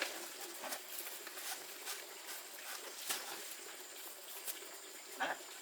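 Soil being scooped and tipped into the stove's brickwork, heard as scattered light scrapes and taps over a soft patter.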